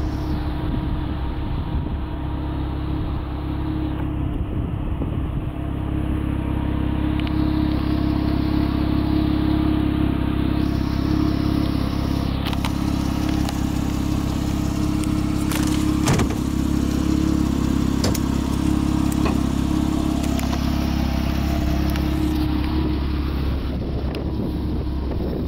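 Porsche Boxster RS60 Spyder's 3.4-litre flat-six idling steadily, with a few light clicks and one sharper knock about two-thirds of the way through.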